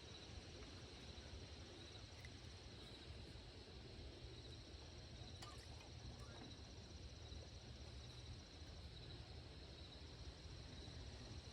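Faint, steady chirring of crickets, with a low steady rumble underneath and a faint tap about halfway through.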